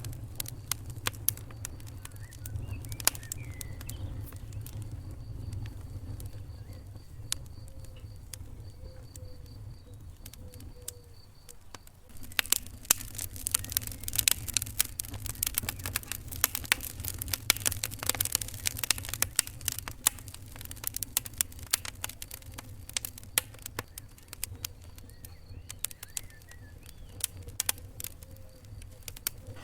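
Wood fire in a fireplace crackling and popping over a low steady rumble of flames, the crackles growing denser for several seconds partway through.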